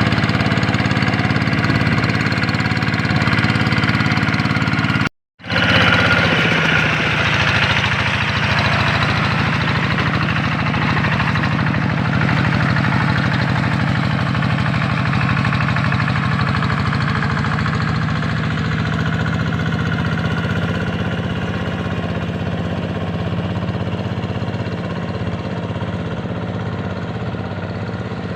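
Kubota RD85 single-cylinder diesel engine of a hand tractor running steadily. The sound cuts out for a moment about five seconds in, then carries on.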